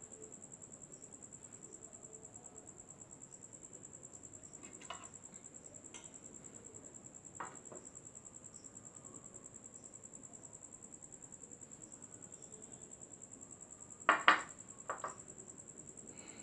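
Steady high-pitched chirping of crickets, with a few short knocks and clinks from eating a meal; the loudest cluster comes about 14 seconds in.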